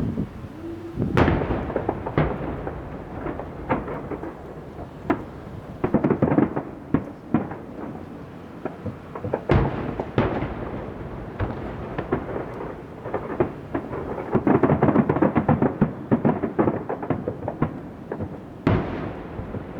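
Fireworks display: aerial shells bursting in a run of irregular loud bangs, each followed by a rumbling echo, thickening into a dense barrage about two-thirds of the way in.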